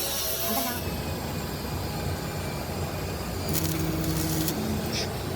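A steady low rumble, with music fading out in the first second.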